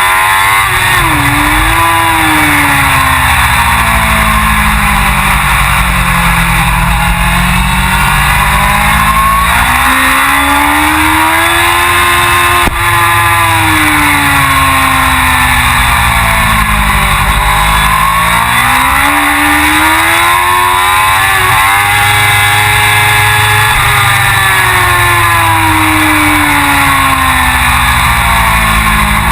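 Suzuki GSX-R1000 superbike's inline four-cylinder engine at racing speed, its revs rising and falling repeatedly in long sweeps as it accelerates and slows through corners.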